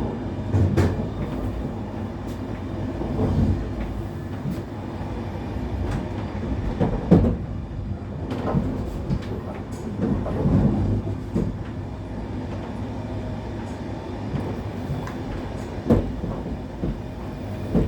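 Passenger train running, heard from inside the carriage: a steady low rumble broken by irregular knocks and clatter of the wheels on the track.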